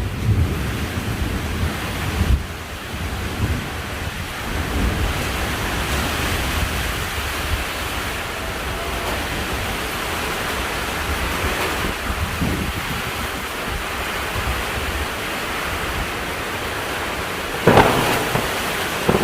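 Heavy rain pouring steadily in a thunderstorm with strong wind, low rumbling gusts in the first few seconds and a loud sudden burst near the end.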